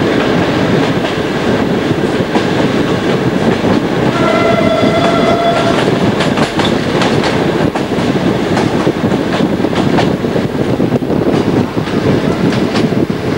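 Passenger train under way, heard from an open carriage window: a steady rumble with wheels clicking over rail joints. About four seconds in, the diesel locomotive sounds one steady horn blast that lasts under two seconds.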